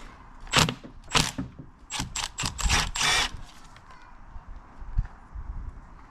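Metal tools and engine parts clinking and clattering as they are handled: two single clinks, then a quick cluster of several, and a dull thump near the end.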